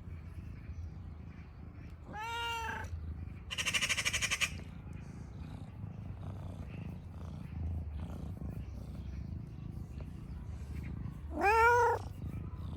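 Domestic cat meowing twice, each a single call rising then falling in pitch, about two seconds in and again near the end, the second louder. Between them, about four seconds in, a short buzzy rasping burst of about a second.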